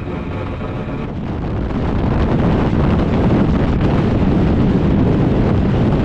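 Heavy wind buffeting on the microphone of a Harley-Davidson motorcycle being ridden at speed. The motorcycle engine's steady note is heard for about the first second, then the wind noise grows louder and covers it.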